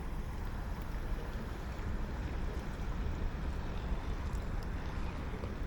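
Steady wind and water noise with a low rumble, no distinct events.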